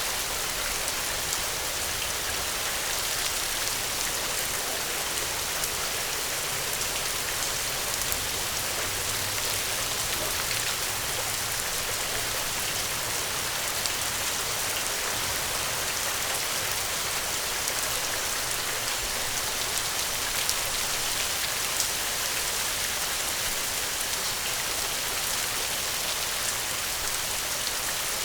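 Steady rain falling: a dense, even hiss with small scattered ticks of drops.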